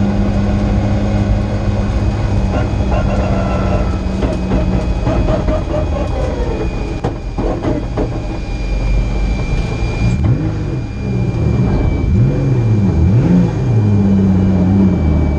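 Nissan March race car's engine heard from inside the cabin, running at low revs for the first half, then revved up and down several times in the second half. A thin, steady high whine runs over the engine sound.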